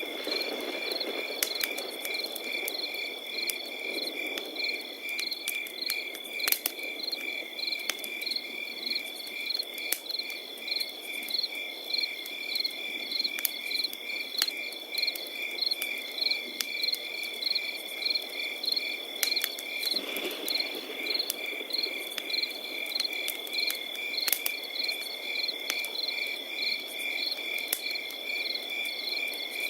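Crickets chirping in a steady chorus: one unbroken high trill with rhythmic chirps about twice a second over it. Beneath it a campfire crackles, with scattered sharp pops.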